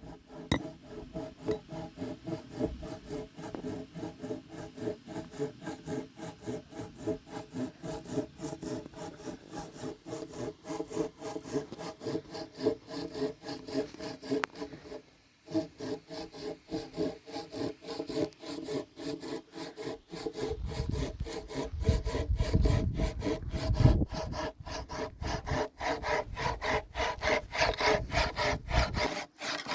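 Hand saw cutting through wood with quick, even back-and-forth strokes, stopping briefly about halfway through and then resuming.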